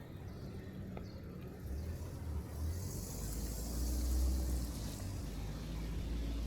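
A car passing on a wet street: a low engine rumble that builds to its loudest about four seconds in, with the hiss of tyres on wet pavement.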